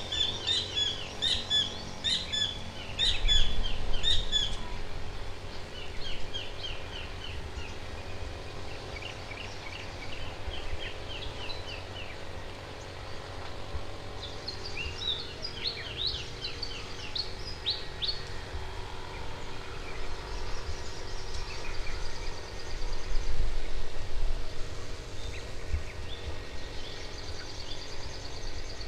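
Wild birds singing and calling, several at once: runs of quick, falling high chirps, busiest near the start and again in the middle, fainter toward the end. Two low rumbles come through under the birdsong, a few seconds in and again about two-thirds of the way through.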